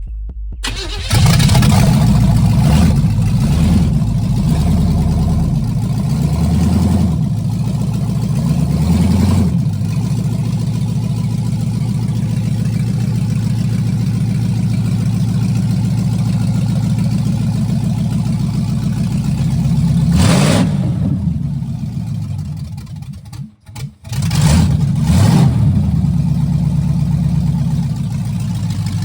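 1978 Chevy Nova's engine catching about a second in, then revved several times before settling into a steady run. It rises again later, cuts out sharply for a moment near the end, then comes back and is revved again.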